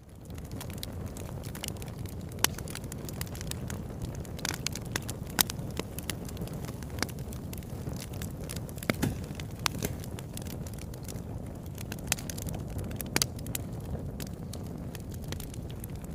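Fire burning in a fireplace, crackling and popping: a steady low rumble with sharp, irregular pops, the loudest about two and a half and five and a half seconds in. It rises quickly out of near silence at the very start.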